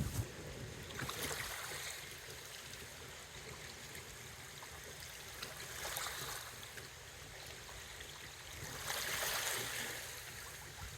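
Gusty wind: a soft hissing rush that swells about a second and a half in, again around six seconds, and most strongly near nine seconds.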